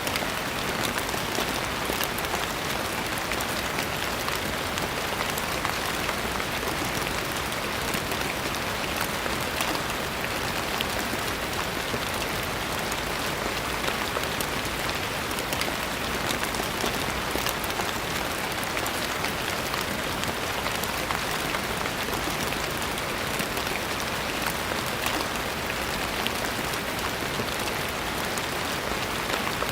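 Steady rain falling, a constant hiss with a dense patter of individual drops.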